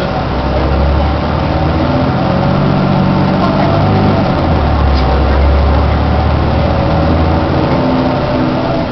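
Heuliez GX 427 articulated bus running on the road, its engine note shifting up and down in pitch a few times. This is its normal running sound, before the abnormal, much louder noise sets in.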